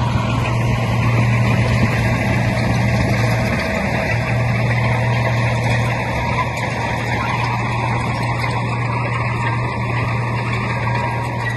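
Heavy diesel engine of earthmoving machinery running steadily with a strong low drone, dipping briefly about four seconds in.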